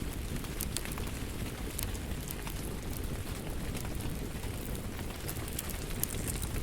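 Wood fire crackling in a fireplace, with scattered sharp pops over a steady low rush, mixed with rain.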